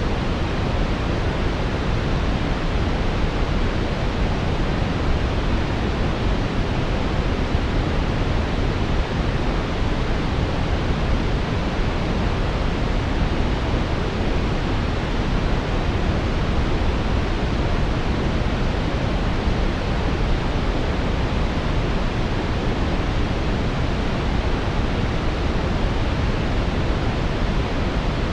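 Steady brown noise: a smooth, even rushing hiss weighted toward the lows, with no changes or events.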